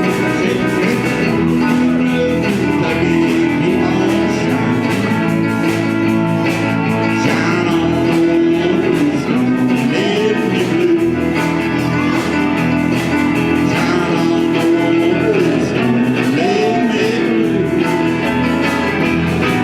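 A small band playing: electric guitar with bending notes over bass and drums, with a steady beat.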